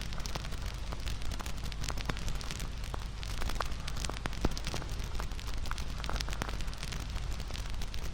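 Wood campfire crackling: dense, irregular sharp pops and snaps of burning wood over a steady low rumble.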